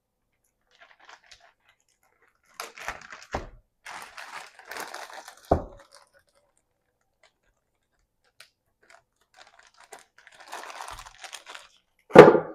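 Plastic packaging of frozen food crinkling as packs are handled and shifted, with two short knocks in the middle and a loud thump near the end as a pack is set down in the freezer.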